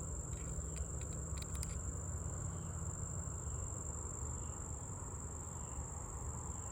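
A steady, high-pitched thin tone runs without a break over a low rumbling hum, with a few faint clicks about a second in.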